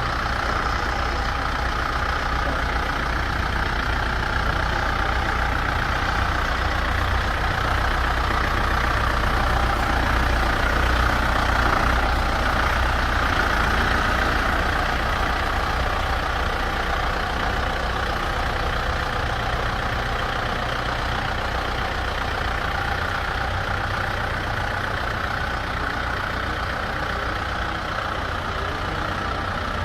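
Kubota M7040 tractor's diesel engine running steadily, growing a little louder around the middle and then easing back.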